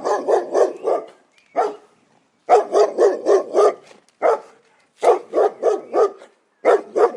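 A dog barking in quick runs of five or six barks, with single barks and short pauses between the runs.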